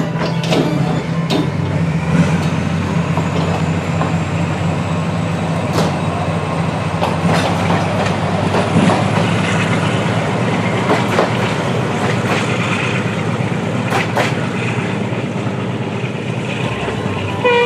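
Narrow-gauge diesel-hauled passenger train pulling out of the station: the locomotive's diesel engine drones steadily while the coaches' wheels click irregularly over the rail joints as they roll past.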